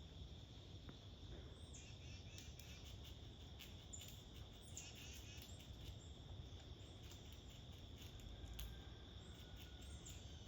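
Faint outdoor ambience: a steady, high-pitched insect chorus, with scattered small ticks and a faint bird chirp or two.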